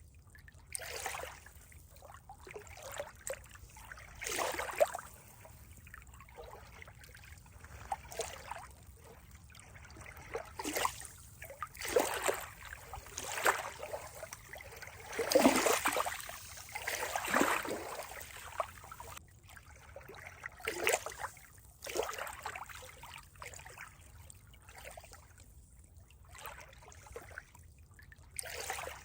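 Water trickling and splashing in uneven bursts, loudest about halfway through.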